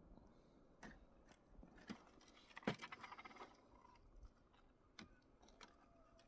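Faint handling noises: a few light clicks and knocks, with a louder clink about two and a half seconds in followed by a short metallic jingle.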